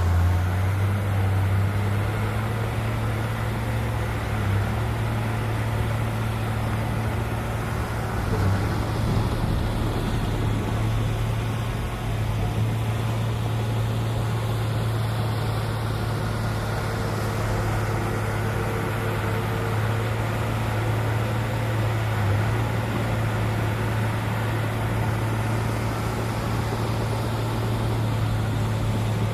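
Heavy diesel engine of earthmoving machinery running steadily, a deep even drone that holds the same pitch throughout.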